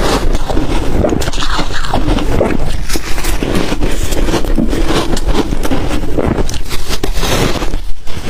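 Ice coated in matcha and milk powder being bitten and chewed close to the microphone: continuous loud crunching and crackling made of many sharp cracks.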